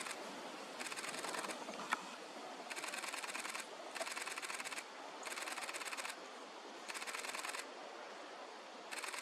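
Camera shutters firing in rapid continuous bursts, six bursts each lasting under a second, separated by short pauses. A single sharp click comes about two seconds in.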